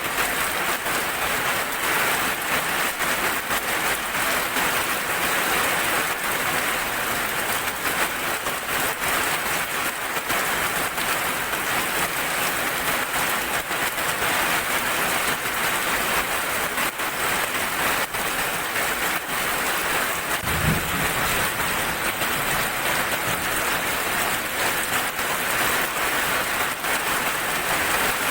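Steady heavy rain falling, an even hiss of countless drops. A brief low thump comes about two-thirds of the way through.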